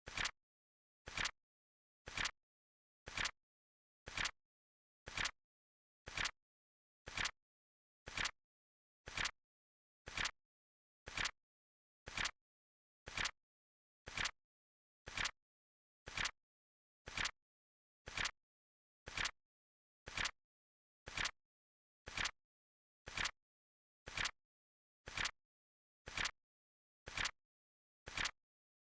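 Flip clock timer sound effect ticking once a second: short sharp clicks, evenly spaced, with silence between.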